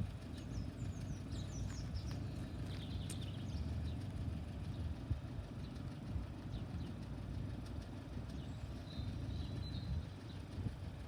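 Outdoor background: a steady low rumble, with small birds chirping faintly over it in the first few seconds and a brief thin whistled note about nine seconds in.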